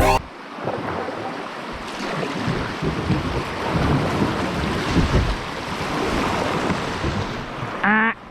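River water rushing around a kayak, with wind buffeting the GoPro microphone in gusty low rumbles; a brief rising pitched sound near the end.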